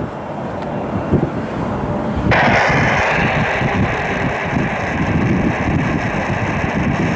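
Wind buffeting the microphone, then, about two seconds in, a jet airliner's engine noise cuts in abruptly and holds steady and loud.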